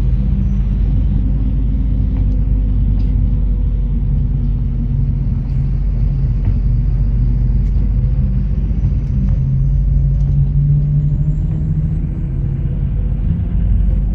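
MAZ 103 city bus under way, heard from inside: a steady low rumble of engine and road noise with a few faint rattles. The engine note grows a little stronger about ten seconds in, then eases.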